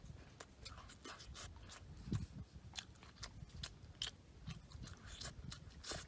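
Close-up mouth sounds of a person chewing and eating grilled fish by hand: irregular small wet clicks and lip smacks.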